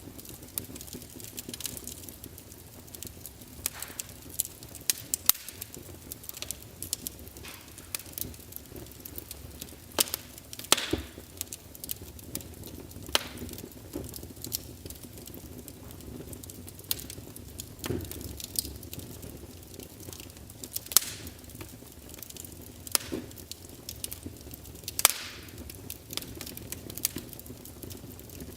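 Wood fire in a fireplace crackling, with a steady low hiss of burning and frequent irregular sharp pops from the logs.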